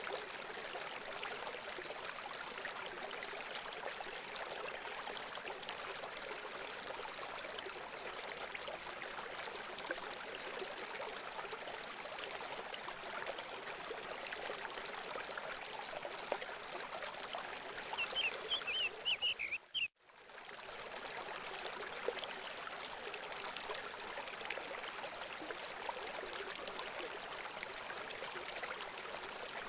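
Running water babbling steadily, with a quick run of high bird chirps about two-thirds through. Right after the chirps the sound cuts out abruptly for a moment, then fades back in.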